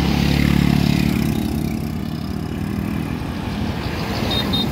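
Motorbike engine running at riding speed, heard over wind and road noise. The engine note is strongest in the first couple of seconds and then eases off a little.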